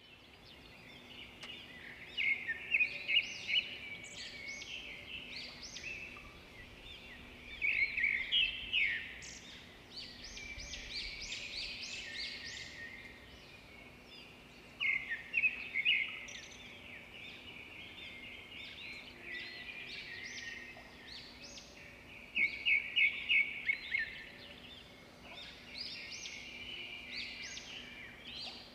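Songbirds singing and chirping, with several loud bursts of fast repeated notes, about four a second, over a faint steady background.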